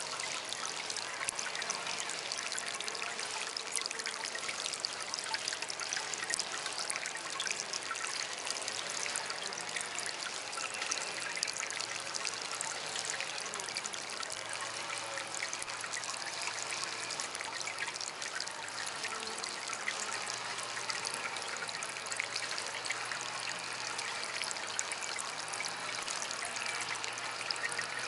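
Small DIY water fountain trickling and splashing steadily.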